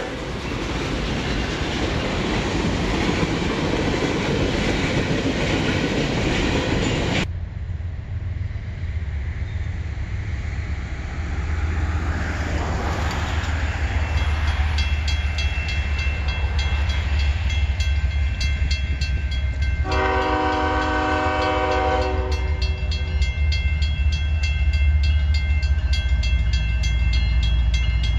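A CN freight train of autorack cars rolls past with a steady rush of wheel and car noise that cuts off sharply after about seven seconds. Then a diesel train's low rumble builds as it approaches, with a fast high ringing from about halfway and a multi-note locomotive horn blowing for about two seconds near the end.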